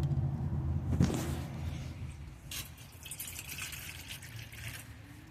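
A knock about a second in, then water being poured into a rabbit's water bottle for about two seconds.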